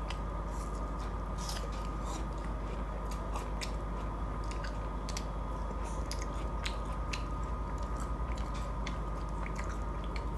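Close-up chewing of a spicy fried chicken burger with apple slices, many small sharp mouth clicks and crunches, over a steady low hum.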